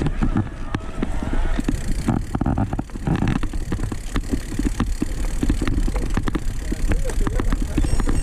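Mountain bike rattling and knocking over a rough trail, with a steady low wind rumble on the microphone.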